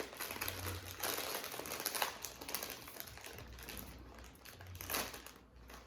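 Food packaging, a sandwich wrapper or chip bag, crinkling and rustling as it is handled, louder in patches about a second in and again near the end.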